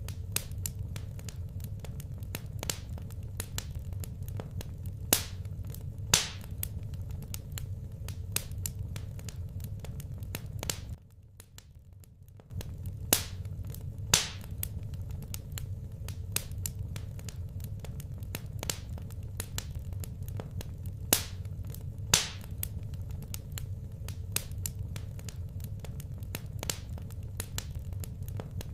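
Wood fire crackling in a fireplace: irregular sharp pops and snaps, some louder than others, over a steady low rumble. Everything drops out for about a second and a half around eleven seconds in.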